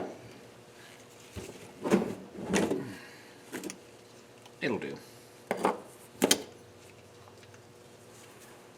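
Metal engine parts from a disassembled cylinder head being handled and set down on a workbench: a few separate knocks and clacks, some with a brief ring.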